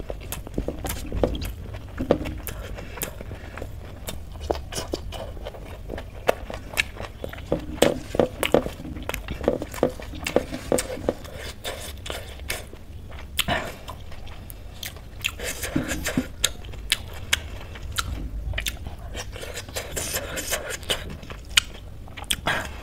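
Chewing and mouth smacking of rice and curry eaten by hand, with many short, irregular clicks, and fingers scraping through rice on a steel plate.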